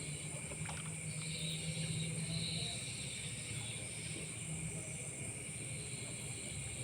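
Night insect chorus: crickets and other insects trilling steadily at several high pitches. A low steady hum lies underneath, stronger for the first couple of seconds.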